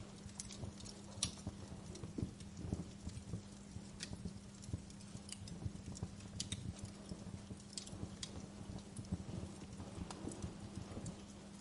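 Wood fire burning in a fireplace, crackling with irregular sharp pops and snaps over a low rumbling hiss, with a steady low hum underneath.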